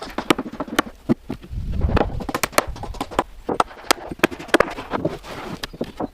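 Rapid, irregular knocks and clicks, several a second, with a low rumble about two seconds in.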